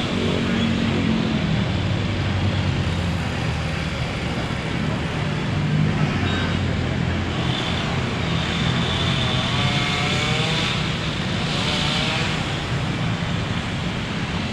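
A motor vehicle engine running steadily amid road traffic noise, with faint voices in the background.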